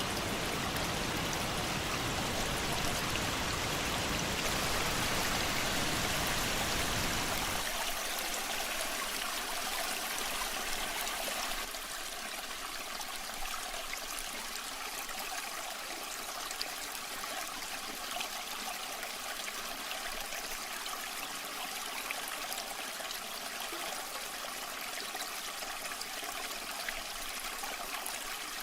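Waterfall water rushing and splashing steadily. About eight seconds in the deep rumble drops away, and a few seconds later it gets slightly quieter, leaving a lighter, brighter flow with occasional small splashes.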